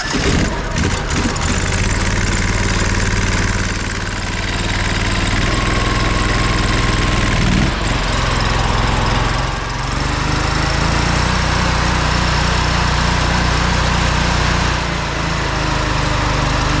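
Pressure washer's engine running steadily just after starting, its note shifting slightly a few times.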